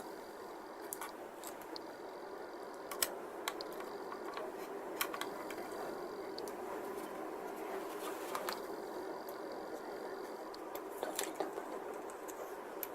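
Scattered light clicks and taps of plastic model parts being handled and fitted, over a steady background hiss.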